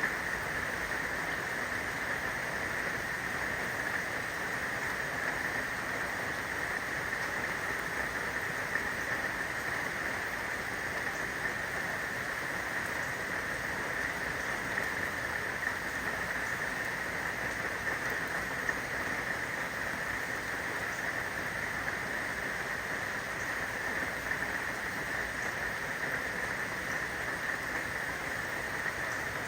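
Steady rain falling, an even hiss with a constant high-pitched drone running through it.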